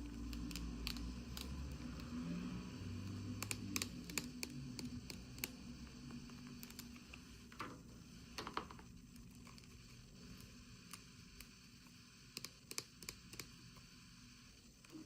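Faint handling of toy packaging: scattered light clicks and taps with some rustling and tearing. It is busier in the first few seconds.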